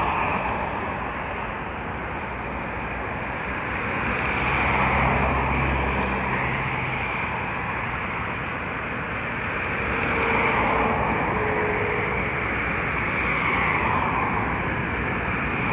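Steady road traffic noise, with swells as vehicles pass by.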